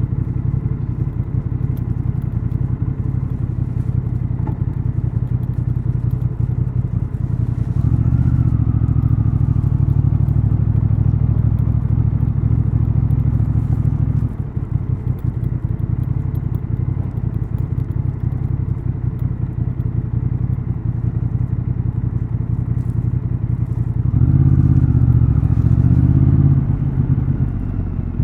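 Honda XL750 Transalp's 755 cc parallel-twin engine and exhaust running, louder and held at a steady pitch from about 8 to 14 seconds in. Near the end it rises and falls in pitch a few times.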